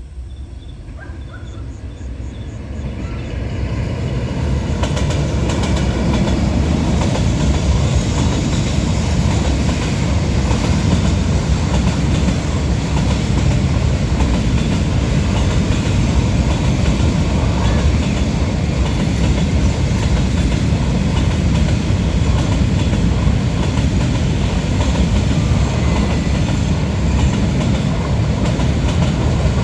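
A train running on its rails, growing louder over the first five seconds or so and then holding steady and loud.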